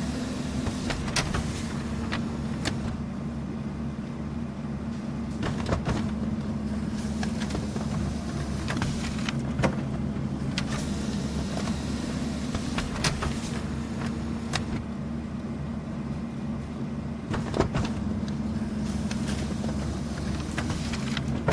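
Office printer running, a steady low motor hum with irregular sharp clicks from the paper-feed mechanism.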